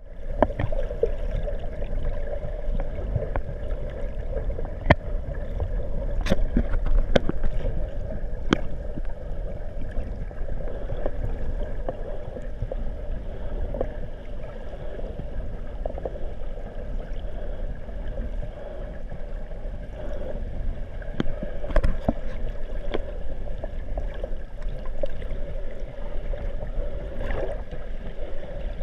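Muffled water noise heard through a GoPro Hero 3's sealed waterproof housing, with a steady hum and a few sharp clicks scattered through it.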